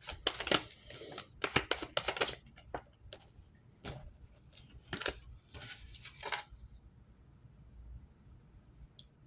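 Irregular sharp clicks and short rustles of small objects being handled, for about six and a half seconds, then near quiet with one faint click near the end.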